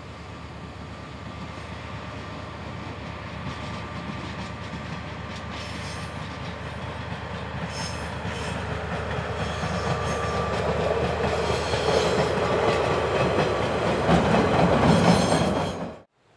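Diesel locomotive hauling a railcar approaches and grows steadily louder, its engine drone joined by wheels clattering over the rail joints as it draws near. It cuts off suddenly near the end.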